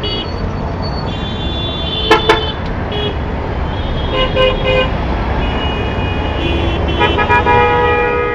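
Heavy road traffic rumbling steadily, with vehicle horns honking again and again: a run of three short beeps a little past the middle and a longer blast near the end. Two sharp clicks stand out about two seconds in.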